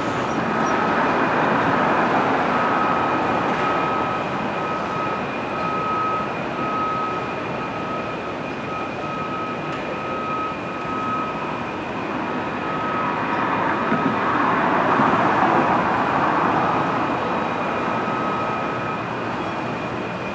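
A passenger train running along the track, heard as a steady rumbling noise that swells about two-thirds of the way through. Over it sit a thin, steady high whine and a faint beep repeating at an even pace.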